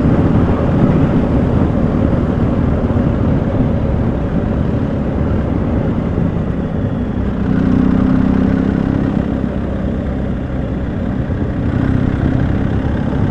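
BMW motorcycle-and-sidecar engine running steadily at road speed, with heavy wind and road noise. The engine note grows a little louder about halfway through.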